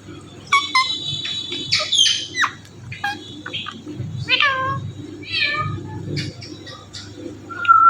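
Indian ringneck parakeet calling and chattering in a string of short, high, pitch-bending calls mixed with held whistles and sharp clicks.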